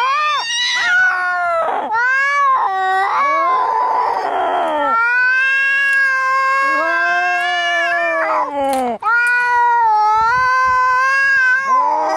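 Angry cats caterwauling as in a fight: long, drawn-out yowls that waver up and down in pitch, with a harsh hiss about three and a half to five seconds in.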